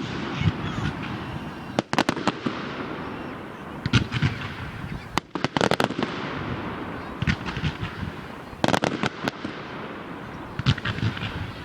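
Aerial fireworks going off: clusters of sharp bangs every second or two, with crackling between the bursts.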